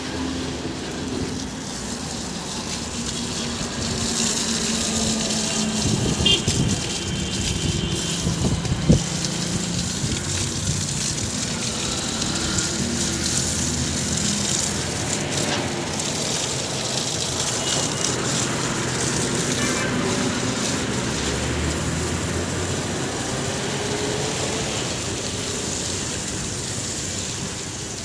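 JCB 3DX backhoe loader's diesel engine working, its note rising and falling, over a steady rushing hiss, with a sharp knock about nine seconds in.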